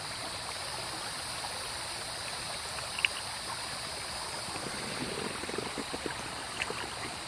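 Creek water running steadily over rocks, with one sharp click about three seconds in and a scatter of small knocks a couple of seconds later.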